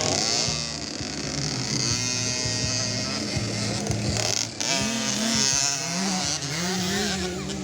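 Small 50cc motocross bike engines running and revving, their buzzing pitch repeatedly rising and falling.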